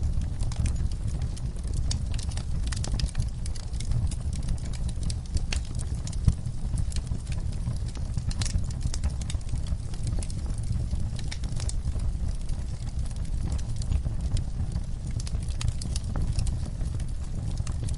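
Wood fire burning in a fireplace: a steady low rumble of flames with many irregular crackles and pops of the burning logs.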